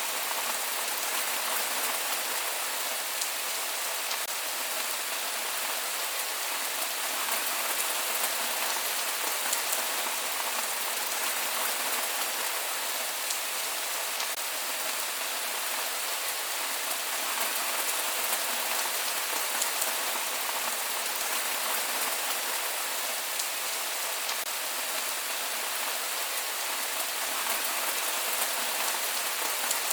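Steady rain without thunder: an even hiss with faint scattered drop ticks.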